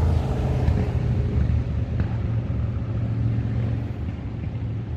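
Motorcycles riding past on the road: a deep engine rumble that slowly fades toward the end.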